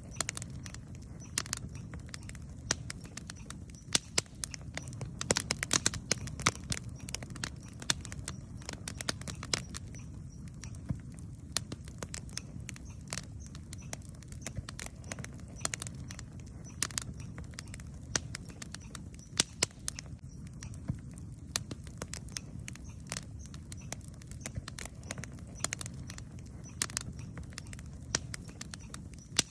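Wood campfire burning, with frequent irregular crackles and sharp pops over a steady low rush.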